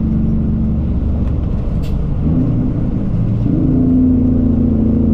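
Cummins ISX diesel engine of a Peterbilt 379 truck running under way, heard from inside the cab. Its note wavers and changes between about two and three and a half seconds in, then settles a little louder and steady.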